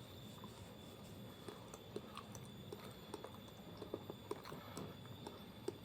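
A person chewing fried banana with the mouth close to the microphone: soft, irregular, faint wet clicks.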